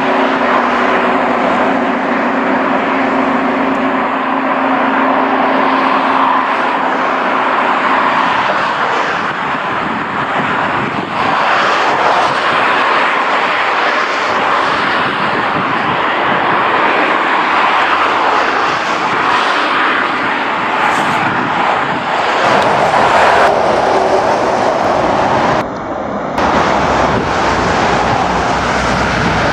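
Loud, steady rushing noise of a passing train, with a few steady hum tones at first. Near the end it changes to road trucks driving by.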